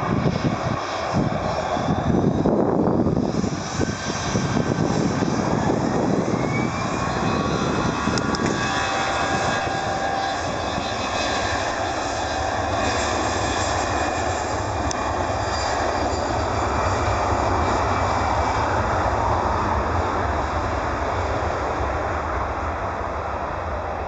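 Airbus A320-214 jet on landing approach, its CFM56 engines giving a steady loud buzz, called a 'buzz / chainsaw noise', with pitched whines that glide as it passes. Gusty wind noise on the microphone in the first few seconds.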